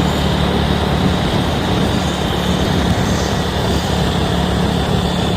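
Single-cylinder motorcycle engine running steadily at cruising speed, with a steady rush of wind noise over it.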